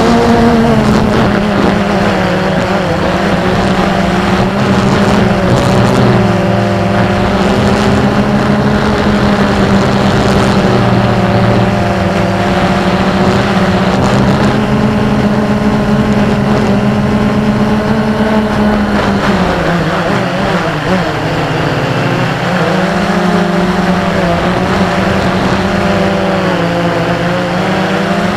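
XK Detect X380 quadcopter's motors and propellers buzzing steadily, the pitch wavering and dipping now and then, most noticeably about twenty seconds in.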